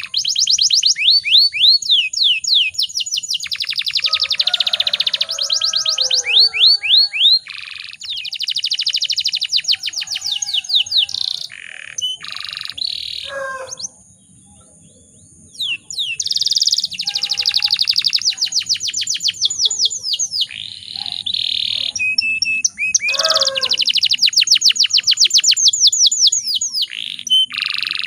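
Domestic canary singing: long, fast rolling trills of rapidly repeated sweeping notes mixed with short chirps, with a brief pause about halfway through.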